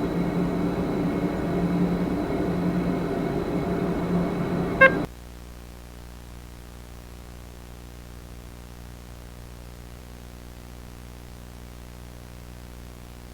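Low steady electronic drone with a thin high tone over it, ending in a short click about five seconds in, when it cuts off suddenly to a fainter steady hum and tape-like hiss.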